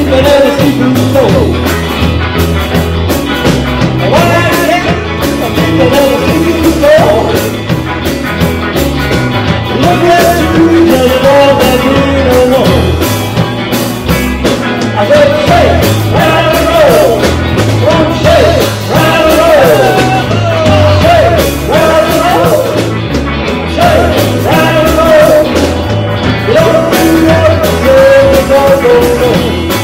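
Live rock band playing an upbeat rock and roll number, with a steady bass and drum beat under a bending lead melody line.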